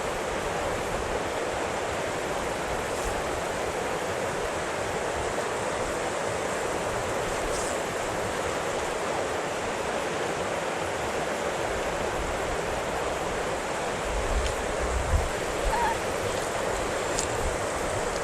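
Steady rush of river water, an even noise that holds through, with a few low bumps near the end.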